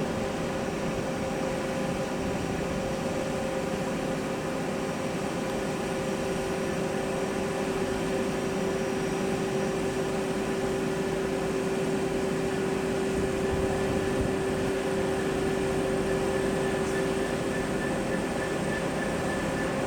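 Steady mechanical hum and hiss with a couple of held whining tones, one dropping out and a higher one coming in near the end: railway background noise at the lineside before the train arrives.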